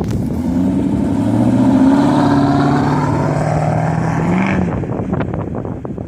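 Straight-piped V8 exhaust of a 2001 Lexus GS400 running under throttle, its note held fairly level for about four seconds. It rises briefly, then falls away, followed by a few short ticks.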